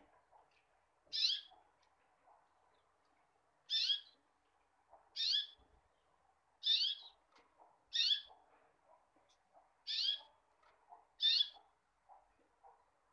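A bird calling over and over, seven short chirping calls with quick falling notes, one every second or two.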